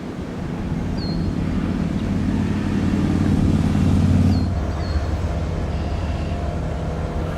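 Diesel locomotive engine running as a train passes close by, its low steady drone growing louder to a peak about four seconds in and then easing off. A few short high chirps sound over it.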